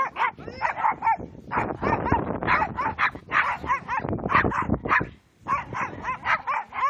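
A dog barking over and over in quick, short barks, about three or four a second, with a short pause about five seconds in.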